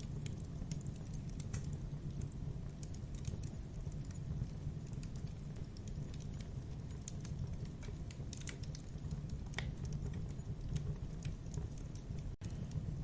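Campfire burning: wood crackling and popping in irregular sharp clicks over a steady low rumble of flames. The sound drops out for an instant near the end.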